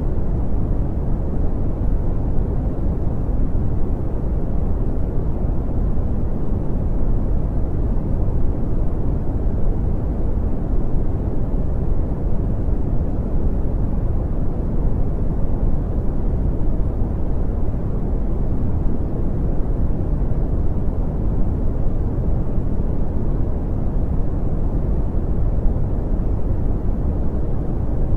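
Brown noise: a steady, deep rushing hiss, strongest in the low end and fading off in the highs, unchanging throughout.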